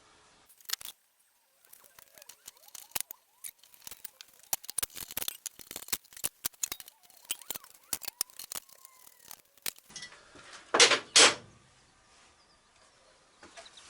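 Irregular light clicks and taps of hand tools and metal parts being handled while the headstock of a Record CL3 wood lathe is taken off. Near the end come two short, louder scraping knocks close together.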